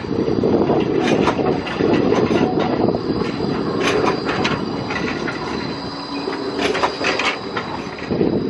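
Gold Coast light-rail tram running on its track, with a steady high-pitched squeal and scattered clicks, under heavy wind buffeting on the microphone.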